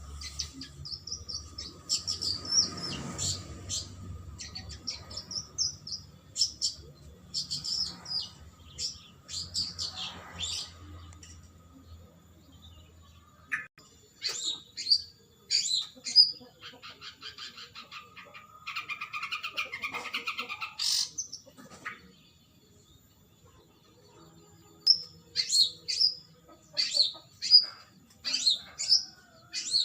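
Long-tailed shrike (cendet) in continuous song: runs of sharp high chirps, with a harsh rattling stretch in the middle, then quick chirping phrases again near the end.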